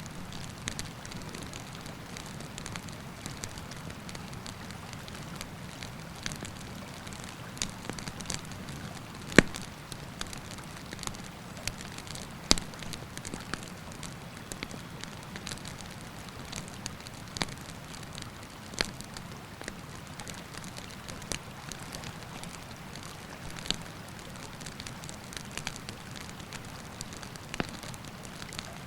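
Wood campfire crackling with irregular sharp pops, the loudest about nine and twelve seconds in, over the steady rush of a river.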